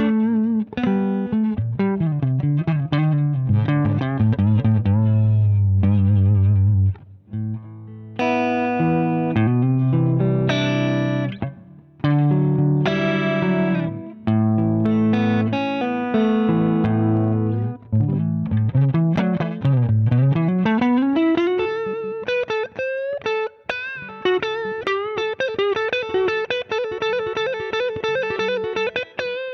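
Electric guitar played through a Zander Circuitry Surplus overdrive pedal, with a crunchy overdriven tone: chords and riffs, a slide down and back up in pitch about two-thirds through, then fast repeated picking of one high note near the end.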